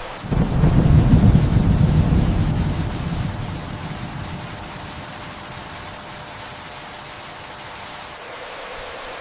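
Thunder rumbling over steady rain: a low rumble breaks in suddenly just after the start, is loudest over the next two seconds, then dies away, leaving the even hiss of rainfall.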